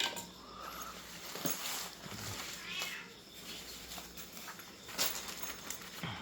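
A cat meowing a couple of times in short, fairly quiet calls, with a few light knocks from handling things.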